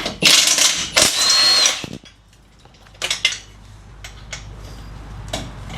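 Cordless power tool running in two short bursts, each about a second, with a high motor whine, undoing the exhaust mount bolts; a few light metal knocks follow.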